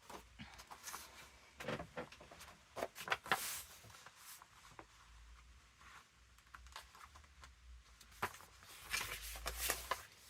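Paper pages being handled: soft rustling and light taps, in two busier spells, one about two seconds in and one near the end.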